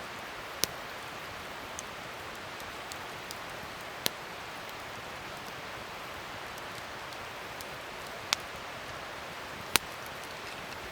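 Wood fire burning with a steady hiss, split by four sharp pops and a few faint ticks as the wood crackles.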